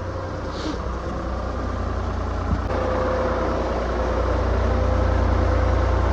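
A steady low machine drone, like an engine idling, with a faint click about two and a half seconds in and a steady higher whine joining just after.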